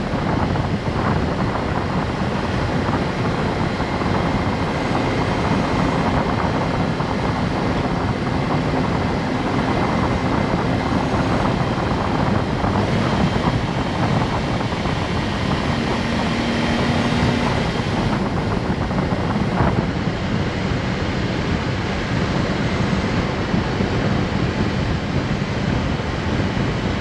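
Honda S660 on the move: steady road and wind noise mixed with its small turbocharged three-cylinder engine running.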